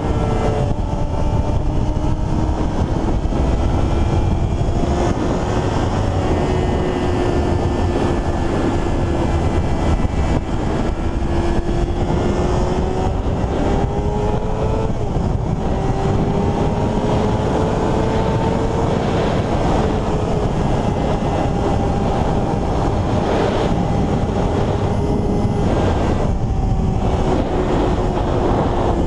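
Motorcycle engine running steadily, its pitch drifting slowly up and down with no sharp revs or gear changes, under a heavy rumble of wind noise.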